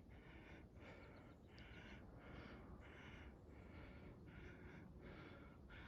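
Faint, quick heavy breathing of a hiker climbing an incline, about three breaths every two seconds.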